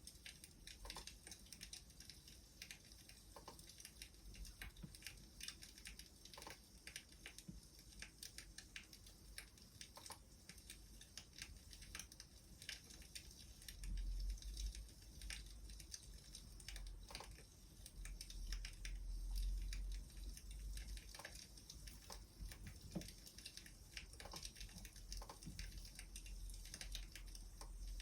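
Wood fire crackling: irregular small pops and snaps over a faint hiss, with a low rumble that swells briefly about half way through and again a few seconds later.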